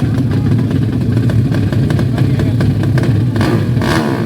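Honda Karisma motorcycle engine, tuned for drag racing, running steadily at a constant speed, with a short hiss near the end.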